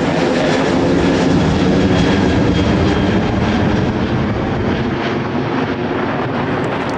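Jet airliner engine noise at close range: a loud, steady roar that cuts off suddenly at the end.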